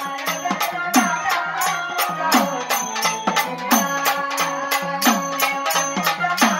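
Indian devotional folk music. A hand drum beats a steady rhythm of about three strokes a second, its low strokes sliding down in pitch, over jingling percussion.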